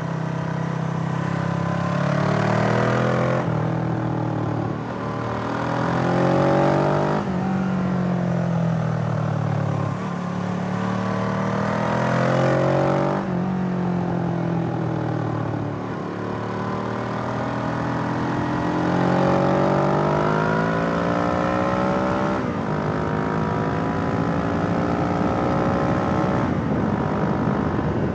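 Suzuki GS500E's air-cooled parallel-twin engine running with its revs climbing steadily over a few seconds and then dropping sharply, several times over, as in pulling through the gears.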